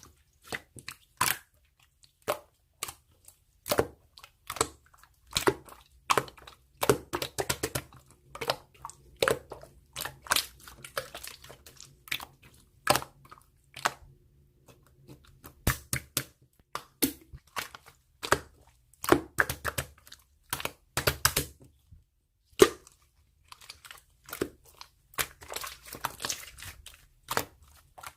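Slime being squeezed and poked by hand, giving an irregular run of sharp crackling clicks and crunches, some in quick clusters.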